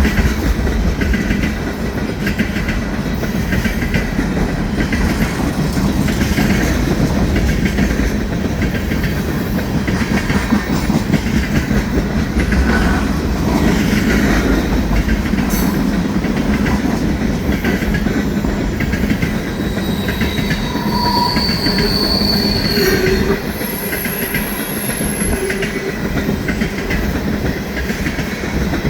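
Freight train of oil tank cars rolling past, with continuous wheel-on-rail rumble and clatter over the rail joints. Wheels give a few brief high squeals about two-thirds of the way through.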